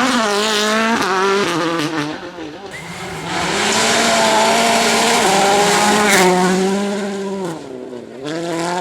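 Volkswagen Polo R WRC rally car's 1.6-litre turbocharged four-cylinder engine running hard, its pitch stepping and gliding up and down with throttle and gear changes. It gets quieter about two seconds in and builds again from about three seconds. Near the end the pitch drops sharply and then climbs again.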